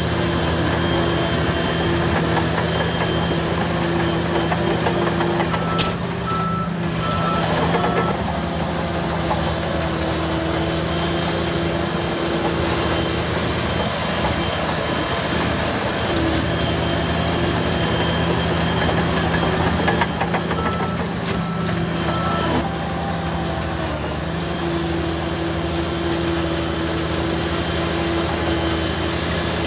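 Heavy earthmoving machinery's diesel engines running steadily. A reversing alarm beeps in two short runs of about four beeps, about six seconds in and again about twenty-one seconds in.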